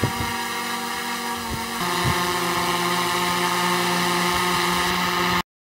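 Quadcopter drone's propellers and motors whining steadily with a stack of tones. It grows louder about two seconds in, with a few soft low thumps, then cuts off abruptly near the end.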